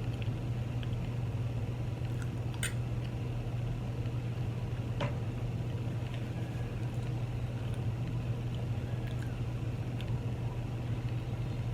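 A steady low hum, with quiet chewing of a hot mouthful of fries and a couple of sharp clicks, one about two and a half seconds in and another about five seconds in.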